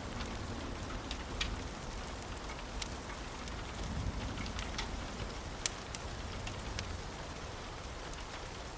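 Steady rain falling, with scattered individual drops ticking sharply, one louder drip about halfway through, over a low rumble.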